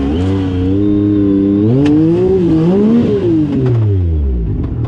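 Side-by-side UTV engine revving up and down, its pitch rising and falling, then dropping low about four seconds in. A couple of brief knocks sound over it.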